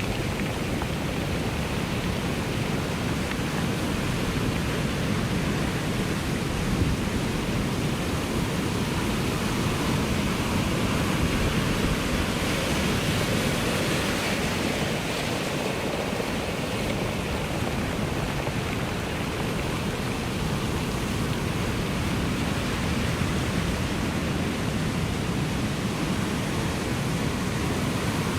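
Ocean surf washing continuously: a steady rush of breaking waves that swells a little about halfway through.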